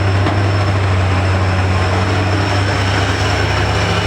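Heavy truck engine running loud and steady, a deep drone with a thin high whine above it.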